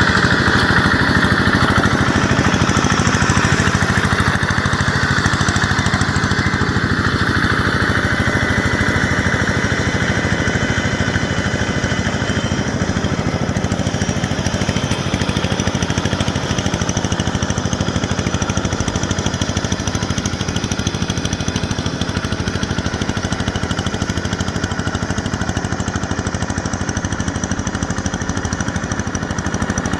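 Yanmar EF725T tractor's diesel engine running steadily with a fast, even beat. A high whine over it fades a few seconds in.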